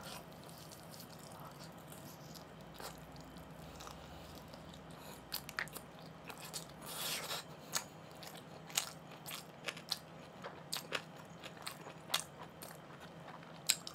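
Close-up eating sounds of a man chewing LA galbi (marinated beef short ribs): quiet chewing, then from about five seconds in, irregular sharp clicks and wet smacks.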